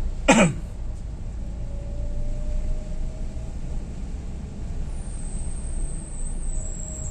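Steady low rumble of a vehicle on the move. About a third of a second in comes a brief sharp sound that drops quickly in pitch, the loudest moment, and a faint high whine runs through the second half.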